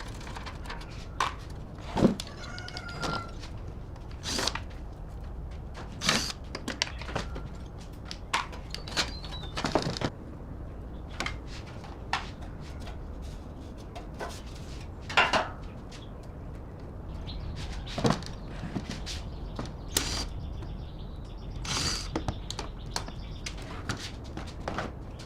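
Irregular clicks, taps and knocks of parts and tools being handled during repair work, scattered and uneven, a few of them sharp and loud, over a low steady hum.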